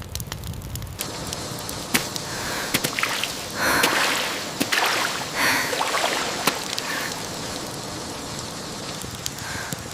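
Steady rain falling, with water splashing and sloshing and scattered sharp clicks, busiest between about three and six seconds in.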